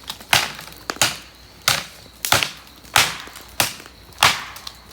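Firewood being chopped by hand: seven sharp strikes of a blade into wood, one about every two-thirds of a second, at an even pace.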